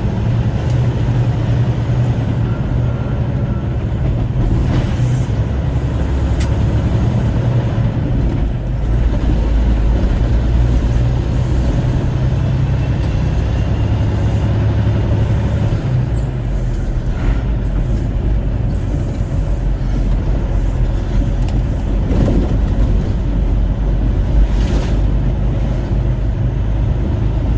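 Semi-truck engine and road noise heard from inside the cab while driving: a steady low rumble that shifts in strength a few times, with a few brief clicks.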